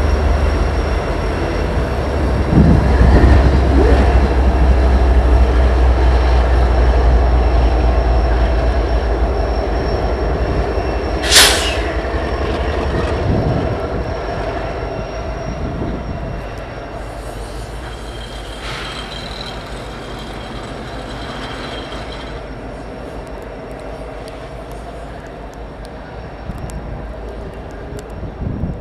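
Diesel freight locomotives moving a train of railcars slowly in reverse through a yard, their engines giving a heavy low rumble that fades as they draw away. There is one sharp bang about eleven seconds in and a thin wheel squeal later on.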